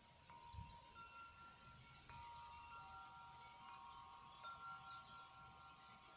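Wind chimes stirred by the breeze. A flurry of strikes in the first few seconds, each tone ringing on and overlapping the others, then scattered strikes.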